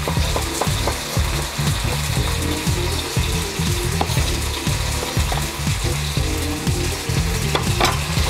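Steak frying in a hot wok, a steady sizzling hiss, with a cleaver knocking on a wooden chopping board every now and then as ginger is chopped.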